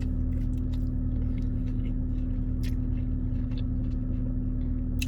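A person chewing a bite of sandwich close to the microphone, with small wet mouth clicks scattered throughout, over a steady low hum.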